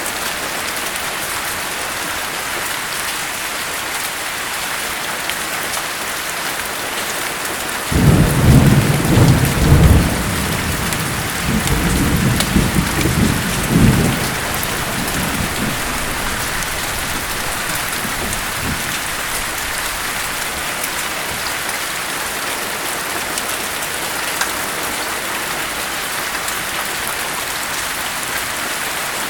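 Steady heavy rain hissing throughout. About eight seconds in, a thunderclap breaks into a loud low rumble in several rolling surges for about six seconds, then fades into the rain.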